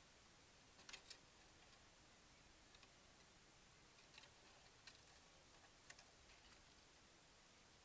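Near silence with a few faint, light clicks and taps, a couple about a second in and a small cluster around four to six seconds in.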